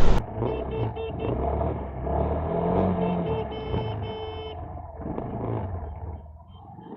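Car engine and road noise heard from a vehicle's dashcam, a steady low rumble that eases off near the end. Short high beeps sound in quick rows about half a second in and again mid-way.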